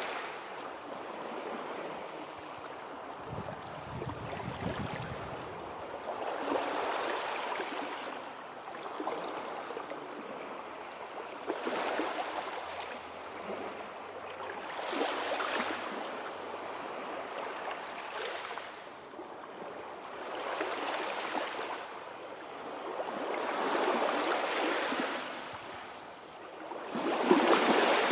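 Sea waves breaking and washing in, the rush of surf swelling and falling back every few seconds, with the loudest wave near the end.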